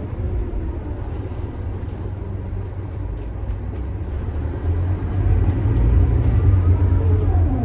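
Scania DC9 five-cylinder turbo diesel of a Scania K280IB bus running on the move, a steady low rumble that grows louder about five seconds in as the engine pulls harder.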